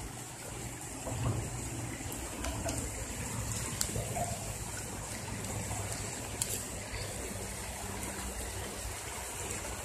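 Creek water trickling steadily, with a couple of faint sharp clicks.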